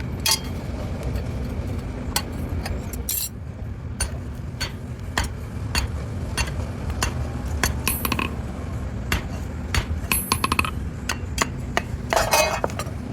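Irregular metal clinks and taps of hand tools working a steel blade, some close together and some a second or more apart, over a steady low hum.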